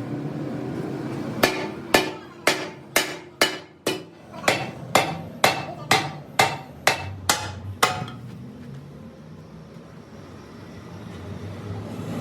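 Hammer blows on steel of a truck axle housing: about fourteen ringing strikes, roughly two a second, with a brief gap partway through, then the hammering stops.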